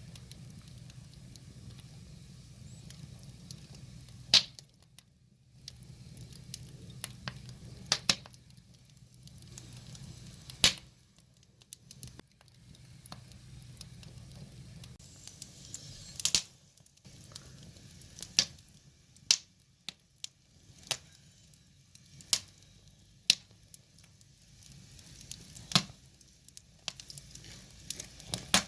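Firewood burning: sharp, irregular pops and snaps from the logs over a soft, steady hiss of the flames.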